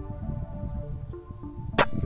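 Background music with held notes; about 1.8 s in, one sharp crack of a 5.5 mm PCP air rifle shot, over a low wind rumble on the microphone.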